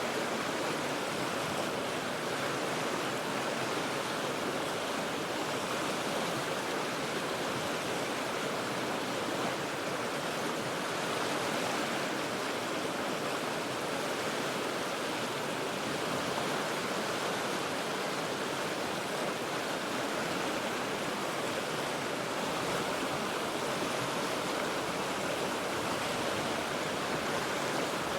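A river rushing steadily over rocks: an even, unbroken wash of water noise.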